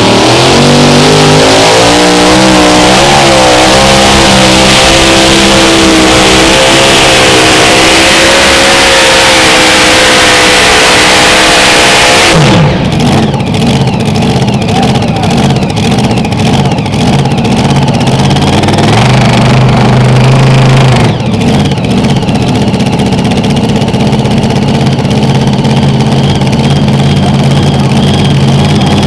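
Mini Rod pulling tractor's engine at full throttle under load, very loud, its pitch climbing and wavering as it pulls. About twelve seconds in it cuts off abruptly, and the engine then runs on at a lower, rougher note.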